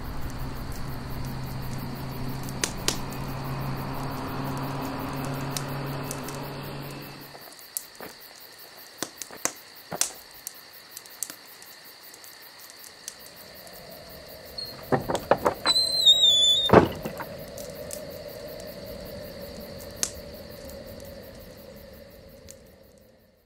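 Car engine and road noise heard inside the cabin while driving, cutting off about seven seconds in. Then scattered clicks and knocks from snowboard boots and gear being handled, with a cluster of loud knocks and a short wavering squeal about sixteen seconds in. A steady hum follows until near the end.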